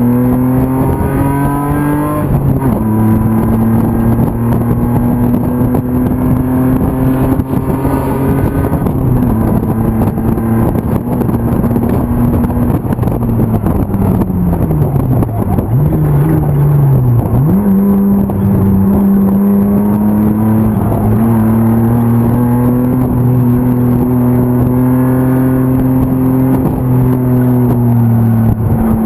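BMW E36 325's M50 inline-six running hard under race load, heard from inside the car. It pulls up through the revs with a gear change about two seconds in and holds a long steady note. About halfway through, the revs sweep down and blip, as on braking and a downshift, then it pulls steadily again until the revs drop near the end.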